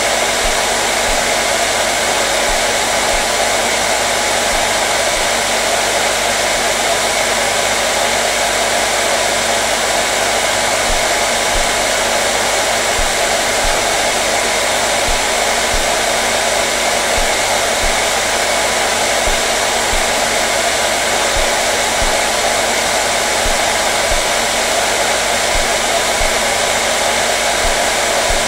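Hair dryer running steadily on one setting, an even, unbroken blowing hiss with a faint motor hum.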